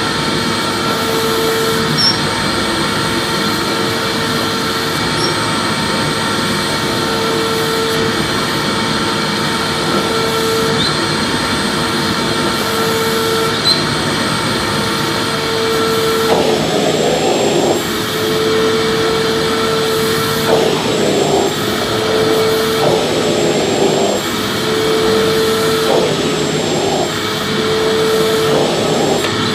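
Vacuum cleaner running continuously: a steady rush of air with a constant whine. From about halfway through, the sound wavers in a series of short surges.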